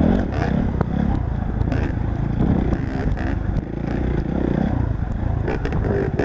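Off-road motorcycle engine running while being ridden on a dirt trail, its pitch shifting with the throttle, with scattered clattering knocks from the bike over rough ground.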